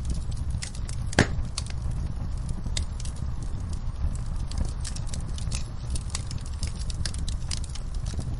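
Wood fire in a fireplace crackling, with irregular snaps and pops over a steady low rumble. One sharp pop stands out about a second in.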